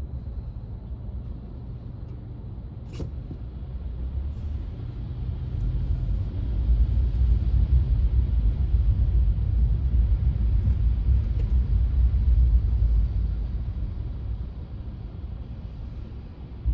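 Low rumble that swells for several seconds in the middle, then fades, with one sharp click about three seconds in.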